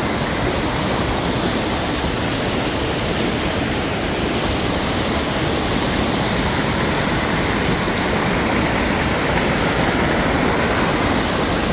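Steady rush of a spring-fed river gushing out from under rock, running hard and muddy after rain.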